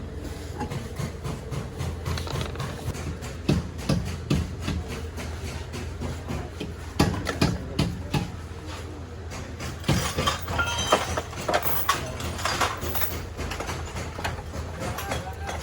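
Metal hand tools and parts clinking and knocking irregularly during car repair work, over a steady low hum.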